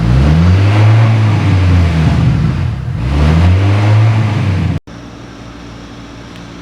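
Kia K5 DL3 hybrid's 2.0-litre four-cylinder engine revved repeatedly through an aftermarket dual variable-valve exhaust, the pitch rising, holding and falling in a few pulls. About five seconds in the sound cuts off abruptly to a quieter, steady running tone.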